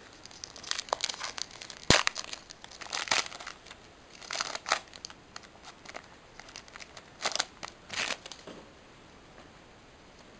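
A foil Pokémon booster pack wrapper being torn open and crinkled, with the cards rustling in irregular bursts. A sharp click about two seconds in is the loudest sound, and the rustling dies down after about eight seconds.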